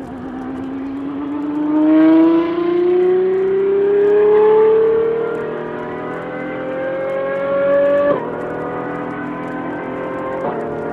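Apollo Intensa Emozione's V12 accelerating hard, its pitch climbing steadily for several seconds, then dropping sharply at a gear change late on before climbing again.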